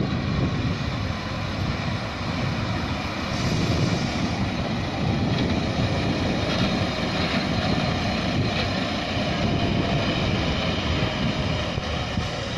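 A railway crane dresin's engine running steadily, a constant rumble with faint steady tones over it, with wind buffeting the microphone.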